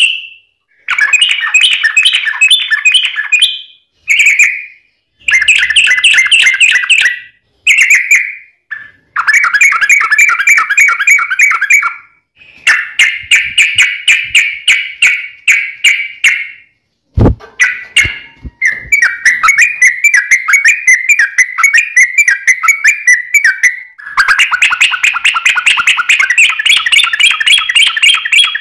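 Yellow-vented bulbul (trucukan) singing in long, fast chattering runs of notes, repeated in bursts of several seconds with short pauses between. A single sharp click sounds about two-thirds of the way through.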